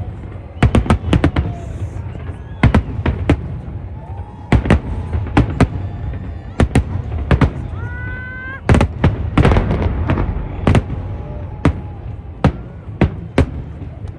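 Fireworks display: shells bursting in a fast, irregular series of sharp bangs over a low rumble, with a dense run of crackling bursts about two-thirds of the way through.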